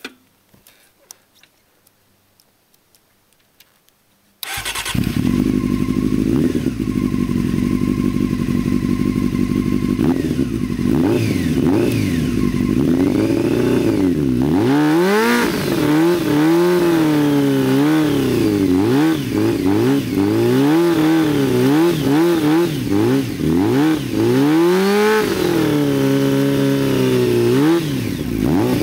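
Honda CBR600 F2 inline-four motorcycle engine starting suddenly about four seconds in, idling steadily, then revved hard up and down over and over in the second half as the rider tries to spin the rear wheel in a burnout on wet grass.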